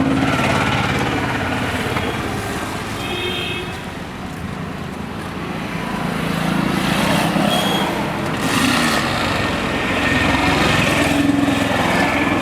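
Motorcycle engine running steadily on the move, with road and wind noise; the sound dips briefly about four seconds in, then rises again.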